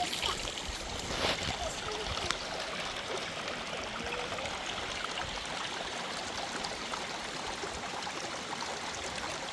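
Water flowing steadily, like a stream, as an even rushing hiss, with a short knock about a second in.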